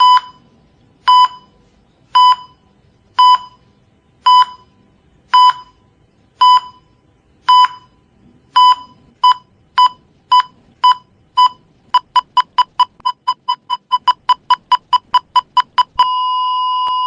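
Heart-rate monitor beeping, about one beep a second, quickening to about two a second around nine seconds in and to a rapid run of about four a second, then breaking into one long unbroken tone about a second before the end: a flatline.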